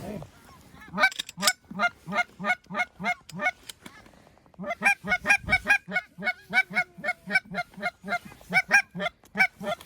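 Goose honks in a fast, even series, about three or four a second, with a short break about four seconds in.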